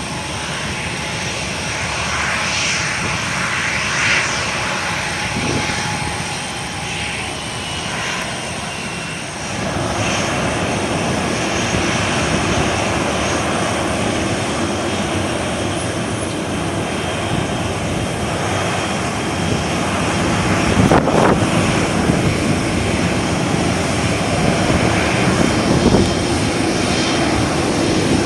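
Twin-engine jet airliner's engines running, a steady rushing engine noise that grows louder about a third of the way in and again toward the end.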